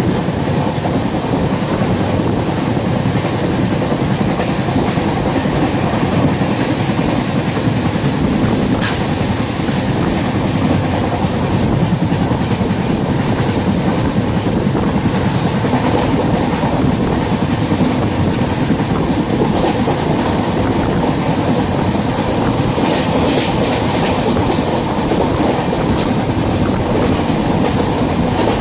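Passenger train running at speed, heard from aboard: a steady rumble of wheels on the track with occasional clicks over rail joints.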